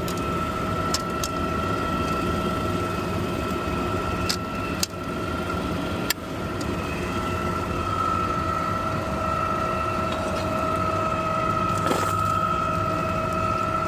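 Garbage truck engine running, with a steady high whine over it and a few sharp clicks and knocks.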